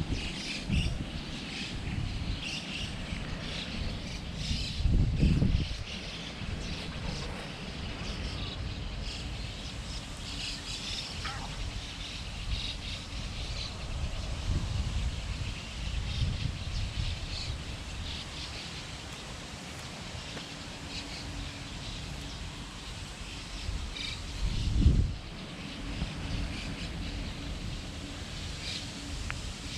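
Small birds chirping over and over against a steady outdoor background, with two low rumbles on the microphone, about five seconds in and again about twenty-five seconds in.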